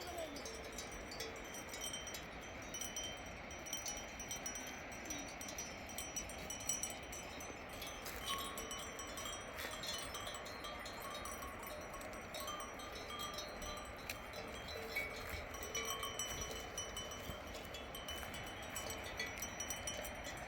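Sheep bells tinkling irregularly, many small bells at different pitches ringing on and off over a low background hiss.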